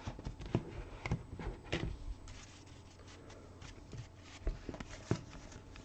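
Trading cards being handled and flipped through by hand: scattered light clicks and rustles of card stock sliding and tapping, with a few sharper flicks.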